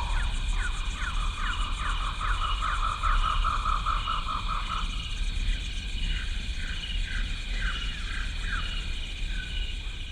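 Stock wildlife ambience effect: a steady high insect drone with evenly repeated cricket-like chirps, over which animal calls fall in pitch about twice a second. A rapid trill joins from about two seconds in and stops near the middle, after which the falling calls go on more faintly.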